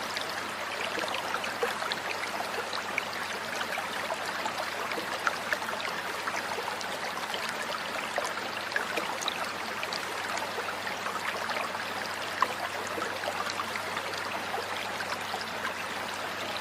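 Steady rushing and trickling water, like a small stream, with a dense patter of tiny splashes.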